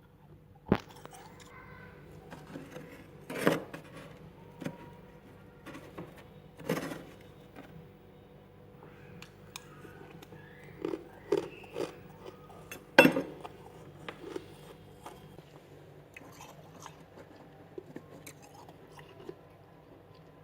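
Freezer frost being bitten and chewed close to the microphone: irregular sharp crunches, a few loud bites among smaller crackles, with the loudest bite a little past the middle.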